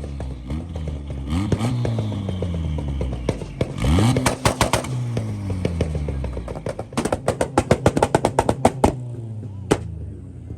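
A car engine revved hard several times, each rev climbing and falling back, the biggest about four seconds in. Then comes a rapid string of loud exhaust pops and bangs, several a second, near the end.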